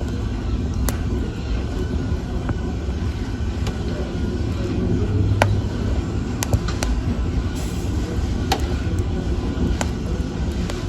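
Wood fire burning with a steady low rumble of flames and sharp crackles and pops scattered through, about eight of them.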